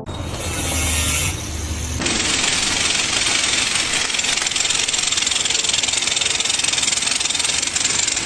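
A heavy machine running loudly and steadily, with a harsher, rumbling burst over the first two seconds.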